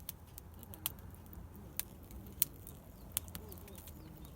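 Irregular sharp clicks and light taps, scattered a few to the second, over faint distant voices.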